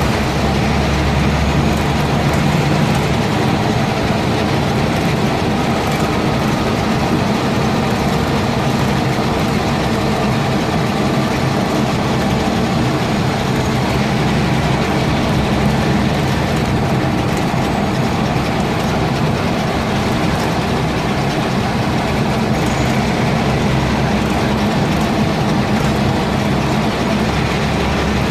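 Scania N230UB single-deck bus's diesel engine running steadily as the bus drives, with road and body noise mixed in.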